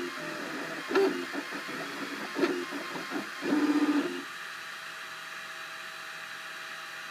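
Cubify 3D printer's stepper motors whirring in short pitched bursts as the print head moves. About four seconds in it settles into a quieter, steady hum with a few held tones.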